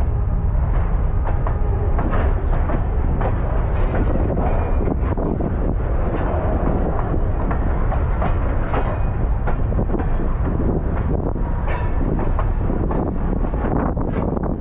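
Baldwin-Westinghouse steeplecab electric locomotive on the move: a steady low rumble from the wheels on the rails, with frequent clicks and clanks.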